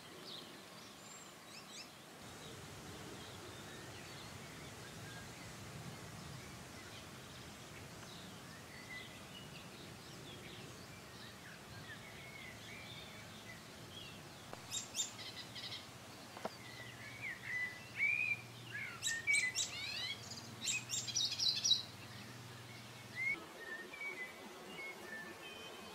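Songbirds chirping and singing, with short gliding calls. About halfway through the calls grow louder and more frequent, in a run of rapid, sharp notes.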